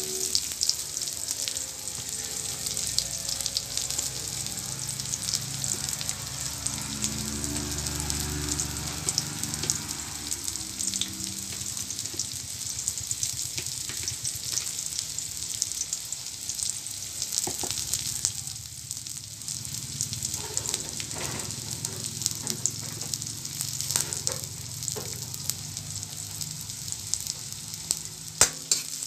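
Garlic and onion sizzling in hot cooking oil in a wok: a steady frying hiss with scattered crackles and pops.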